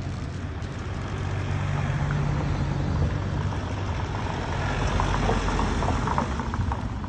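An engine running steadily, a low hum over a wash of noise that grows louder in the middle, with a few faint light clicks near the end.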